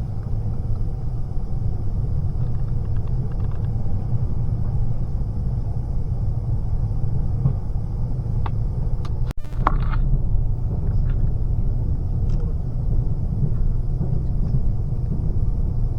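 Steady low rumble of a moving train, heard from inside the carriage, with a brief dropout about nine seconds in.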